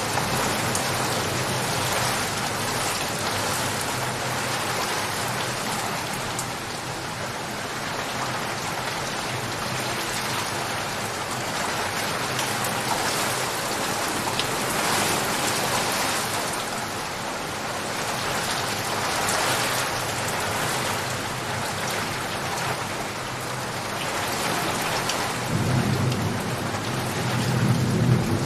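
Steady heavy rain falling. Low thunder starts rumbling near the end.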